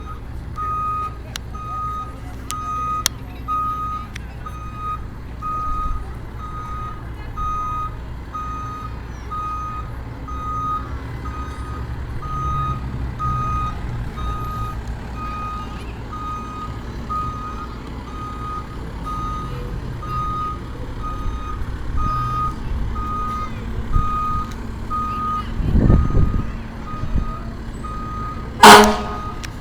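Fire truck backing up: its reversing alarm beeps evenly over the low running of the diesel engine. The beeping stops about two seconds before the end, and a short, loud burst follows.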